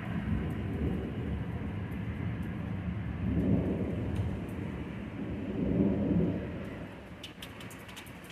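Rolling thunder: a low rumble that swells twice and fades away near the end. A few sharp ticks are heard as it fades.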